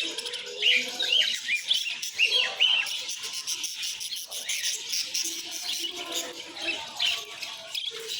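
Many small birds chirping together, short quick calls overlapping without a break.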